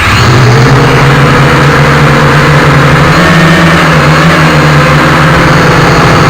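Small quadcopter's electric motors and propellers running at a steady whir, very loud and close, with a buzzing hum that wavers slightly in pitch; it starts suddenly.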